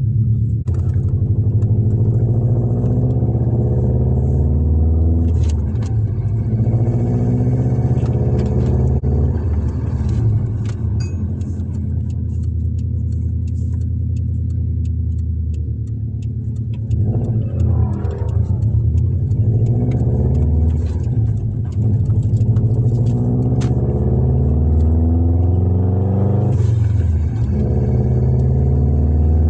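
Subaru Impreza WRX's turbocharged flat-four engine rumbling as the car cruises, its pitch rising and falling with the throttle. It revs up more strongly twice, a little past halfway and near the end.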